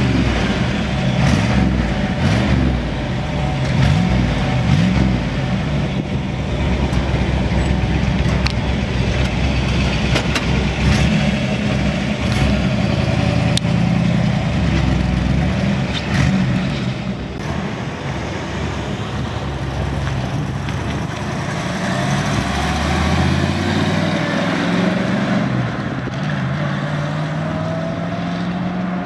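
1963 Chevrolet Impala SS's 409 V8 with dual four-barrel carburettors running through its dual exhaust as the car pulls away at low speed. Its revs rise steadily over the last several seconds as it accelerates away.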